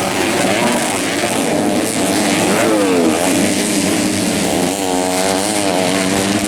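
Several racing dirt-bike engines revving up and down at once as the riders work the throttle, with one bike's engine pitch climbing strongly about five seconds in.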